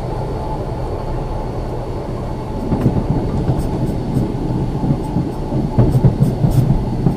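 Ex-Liverpool Corporation tram 869 coasting on its rails, a steady low rumble of wheels and car body. From about three seconds in the rumble grows louder, with a run of sharp knocks and clicks.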